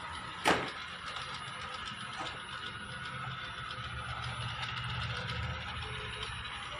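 ILIFE V3s robot vacuum cleaner running, its motor and brushes making a steady mechanical whir with a low hum. One sharp knock sounds about half a second in.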